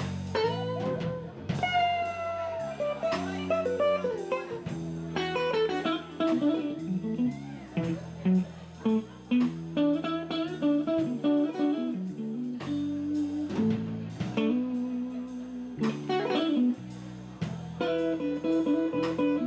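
Live blues band playing: electric guitar picking single-note lines with bent notes over electric bass and a drum kit keeping a steady beat.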